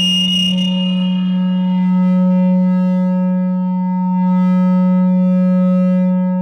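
No-input mixer feedback drone: a steady low tone with a stack of overtones above it, swelling slightly in level twice. A harsher, hissy upper layer drops out under a second in, leaving the clean tone.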